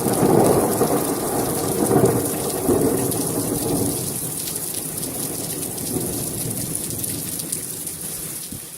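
Rolling thunder of a severe thunderstorm, loudest early on and slowly dying away over the steady hiss of heavy rain.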